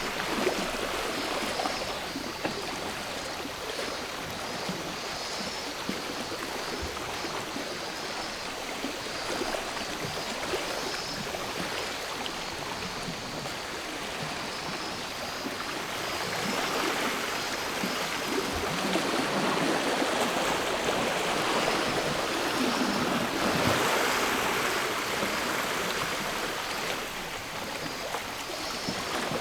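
Sea waves washing onto the shore, swelling to a louder wash in the second half before easing off, with a faint high steady buzz of cicadas.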